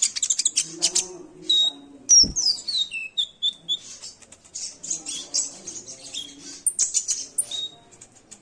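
Kolibri ninja sunbird singing a fast run of high, sharp chirps and twitters with a few short whistled notes, mimicking the calls of other birds such as the house sparrow and the yellow-vented bulbul.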